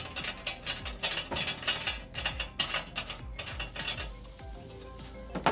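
Ratchet wrench clicking in rapid strokes, tightening a nut or bolt, for about four seconds, then stopping, with a single click near the end.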